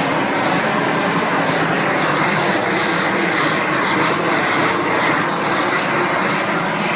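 Propane shrink-wrap heat gun (18,000 BTU) firing steadily, a loud, even rush of burner noise as it heats the plastic wrap to shrink it.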